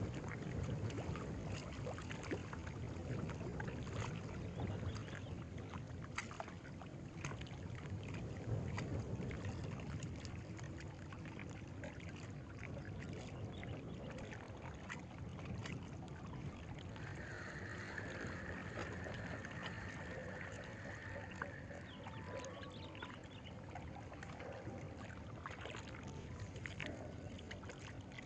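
Outdoor water-side ambience: a steady low rumble of wind and water with scattered small clicks, and a thin steady high tone for a few seconds in the middle.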